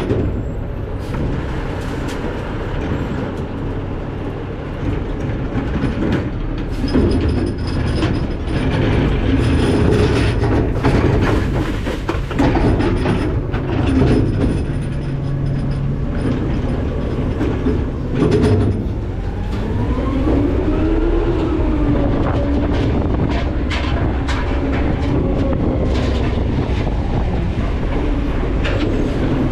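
McNeilus ZR rear-loading garbage truck heard at the hopper: the engine running under a steady heavy rumble, with constant metal rattling and scattered knocks. About two-thirds through, a whine rises and falls back.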